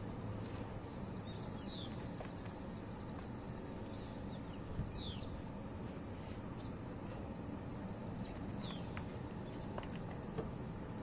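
Steady outdoor background noise with a bird calling a few times in short, falling chirps.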